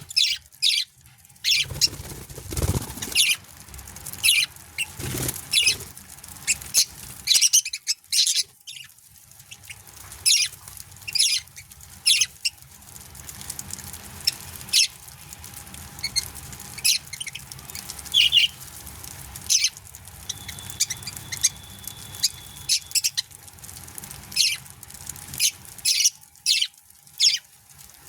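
Budgerigars chirping and chattering: many short, high chirps in an irregular, busy stream.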